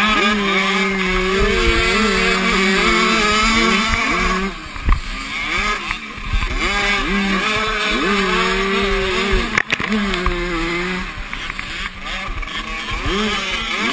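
Motocross motorcycle engines racing, revving up and dropping sharply again and again as the riders shift gears and work the throttle. A short sharp knock comes about five seconds in.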